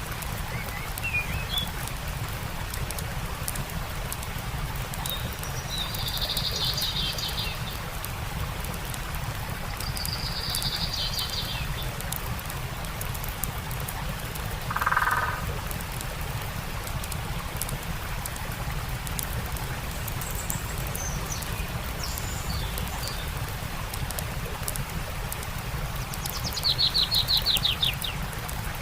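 Campfire crackling in scattered sharp pops over the steady rush of a stream, with songbirds singing: short buzzy trills a few times, a lower call about halfway through, and a fast descending trill near the end.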